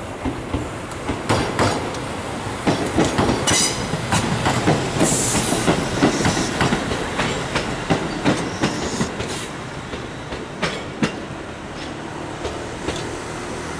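A Tobu Kameido Line electric commuter train passing and moving away, its wheels clacking over the rail joints in quick rhythmic runs. It is loudest in the middle and fades toward the end, with a brief high squeal about five seconds in.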